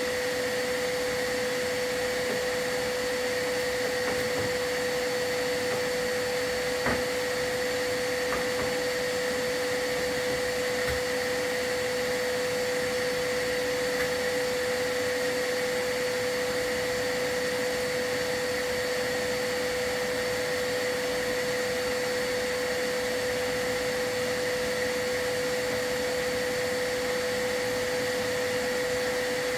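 Vacuum cleaner running steadily with a constant whine, the dust vacuum used during a chimney sweep; a single light knock about seven seconds in.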